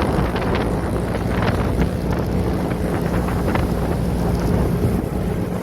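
Kawasaki ZX-25R's inline-four engine running at a steady pitch through a Prospeed aftermarket exhaust, largely buried under heavy wind noise on the microphone while the bike is ridden.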